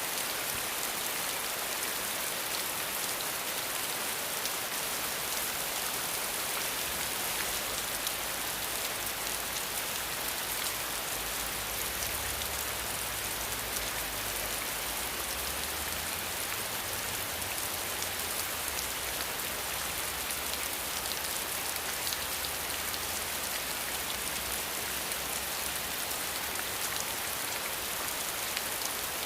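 Steady rain falling, an even hiss with fine patter of individual drops.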